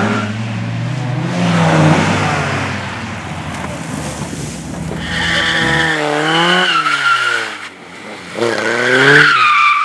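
Race car engine revving hard, its pitch rising and falling, with tyres squealing and skidding in two long stretches: one past the middle and one near the end. The engine briefly drops back just before the second squeal.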